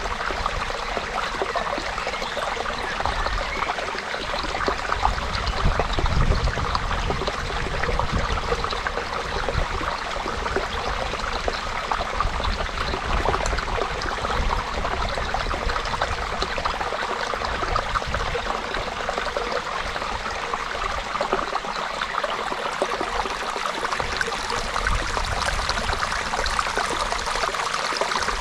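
Creek water flowing steadily over rocks, a continuous babbling and trickling.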